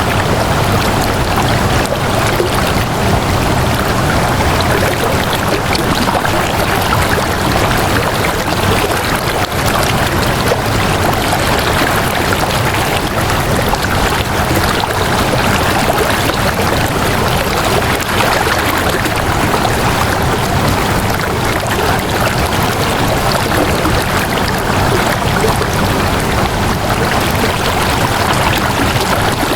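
Flowing water rushing steadily, a continuous stream-like wash that holds an even level.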